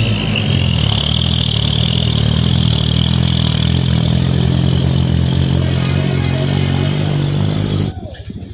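Container truck's diesel engine running steadily with a deep drone and a high whine over it; the sound cuts off suddenly near the end.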